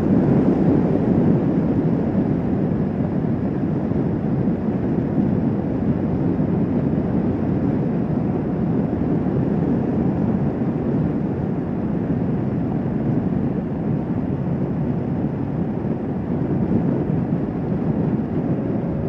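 Motorcycle running at a steady cruising speed, its engine under a heavy rush of wind noise.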